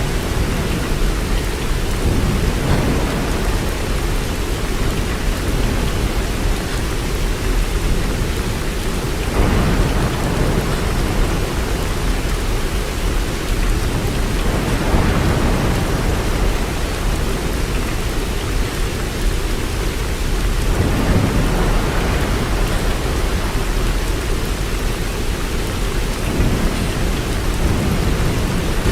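Steady, dense rainfall, a continuous hiss of drops, with a low rumble swelling up and fading every five or six seconds.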